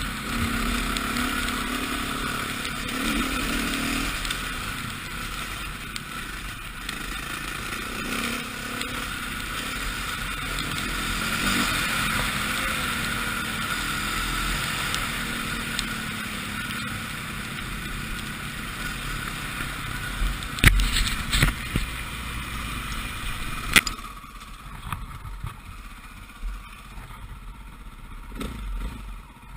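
Four-stroke dirt bike engine running as the bike is ridden off-road. Two sharp knocks come about two-thirds of the way through, and it goes quieter after them.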